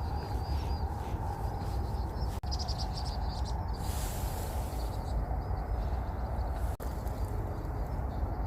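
Small birds chirping, short high calls repeated in quick runs, densest about three seconds in, over a steady low rumble.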